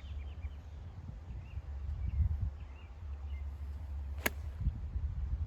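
A golf club strikes a ball once, a sharp crack about four seconds in, over a steady low wind rumble and a few faint bird chirps.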